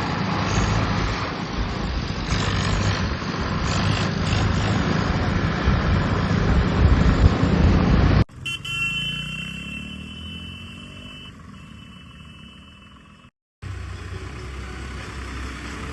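Loud, steady running of tractor engines and traffic for about eight seconds. After an abrupt cut, a vehicle horn sounds for about three seconds over an engine whose pitch rises, and steady engine noise follows.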